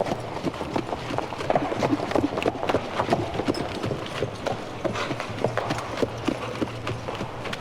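Horse hooves clip-clopping on a hard surface in a quick, irregular patter, played from a vinyl sound-effects record with a low steady hum beneath.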